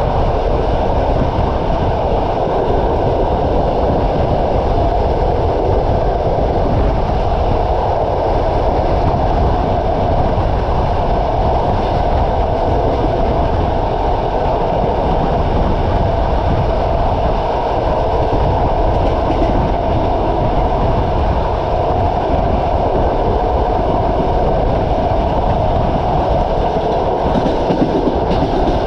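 Passenger coach running along the track: a steady rumble of wheels on rails, with some clickety-clack of the wheels over rail joints.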